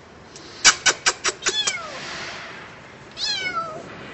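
A kitten trapped in a car's engine compartment meowing twice, high falling cries about a second and a half in and just after three seconds. Before the first cry comes a quick run of sharp clicks.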